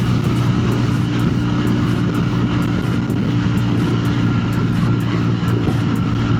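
Lightweight motorcycle engine droning at a steady highway cruising speed, with no change in pitch, mixed with wind rushing over the microphone.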